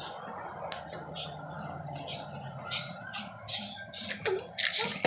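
Short, high chirps like a small bird's, repeating about twice a second, over a steady background hum. A single sharp click comes just before the chirps begin.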